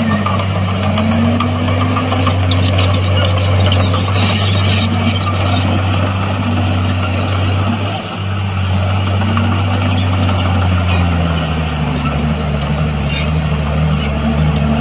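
Heavy diesel earthmoving machinery running under load, a deep steady engine drone with a higher tone that wavers up and down as the engine speed shifts.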